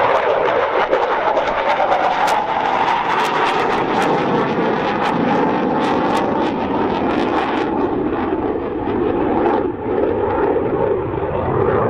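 Dassault Rafale fighter's twin jet engines, loud and continuous as it flies its display, with a rapid crackle through the first eight seconds or so that then thins out.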